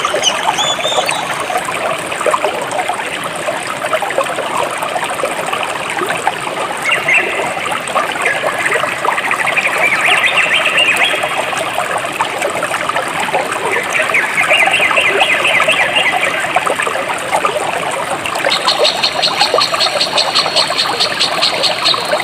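Jungle stream of clear water flowing and trickling steadily, with birds chirping over it. Near the end a fast, even, high trill sets in and keeps going.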